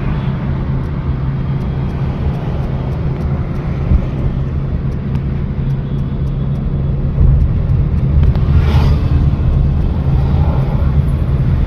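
Car engine and road noise heard from inside a moving car, a steady low hum that gets louder about seven seconds in.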